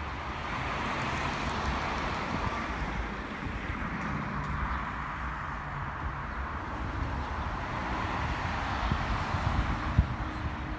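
Outdoor ambience: wind buffeting the microphone over a steady rushing noise, with a single sharp thump about ten seconds in.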